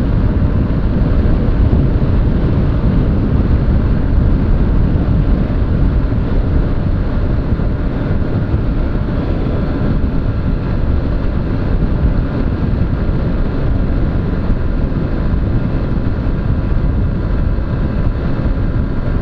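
Honda CG 125 Fan motorcycle's single-cylinder engine running steadily while riding, mixed with a heavy low rumble of wind on the action camera's microphone.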